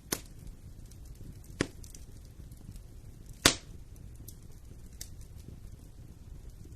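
Wood fire in a fireplace crackling over a low steady rumble, with three sharp pops from the burning wood, the third and loudest about halfway through, and fainter crackles after.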